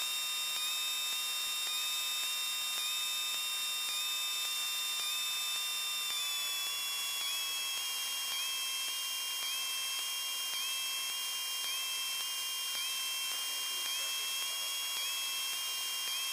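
Steady high-pitched whine and hiss on the Cessna 172M's cockpit intercom audio, tracking the engine. All its tones drop in pitch together about six seconds in, as engine speed falls. A faint short chirp repeats about once a second.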